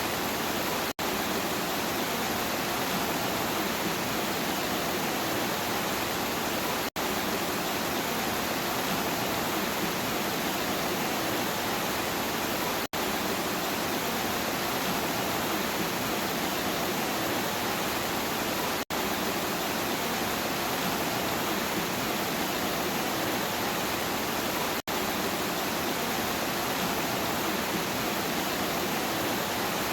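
Steady rain, an even hiss with no distinct drops or thunder. It cuts out for an instant about every six seconds, the seams of a looped recording.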